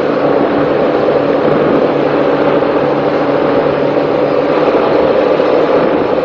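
Racing powerboat's engines running steadily at speed: a loud, even drone with a rushing noise over it.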